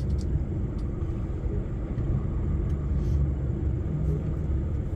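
Steady low engine and road rumble heard inside a lorry's cab in slow traffic.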